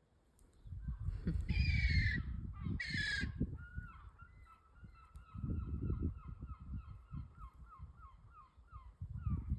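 Seagull calling: two loud, drawn-out cries, then a long run of shorter repeated calls at about three a second.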